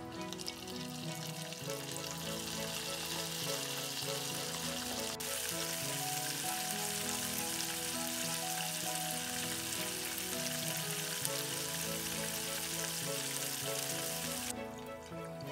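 Batter-coated chicken pieces deep-frying in hot oil in a saucepan: a steady hissing sizzle that grows louder about five seconds in and drops back near the end, over background music.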